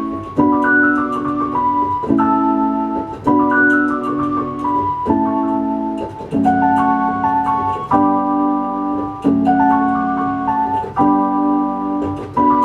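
Electronic keyboard playing an instrumental break in an organ-like voice: held chords that change about every one to two seconds, with a melody line over them.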